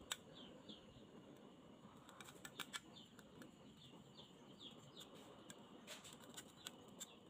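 A bird chirping over and over, short falling chirps about twice a second, faint against a steady low hiss. Several sharp clicks come in a cluster a little past the middle and again near the end.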